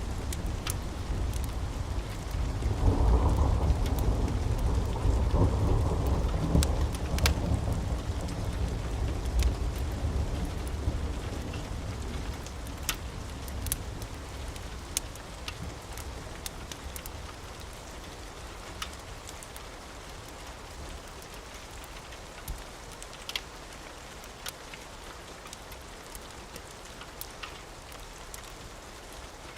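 A roll of thunder rumbles in about two and a half seconds in and slowly dies away over the next ten seconds or so, over steady rain. Scattered sharp crackles sound throughout.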